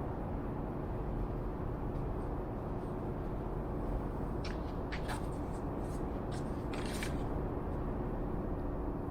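Steady low hum and hiss of workshop background noise, with a short run of light clicks and scrapes from handling tools or wood in the middle.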